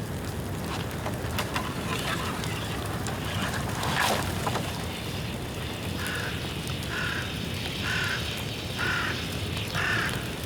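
Bamboo bonfire burning with a steady rush of flame and scattered crackles. One loud sharp pop about four seconds in, typical of a bamboo section bursting in the heat. Five short high tones about a second apart near the end.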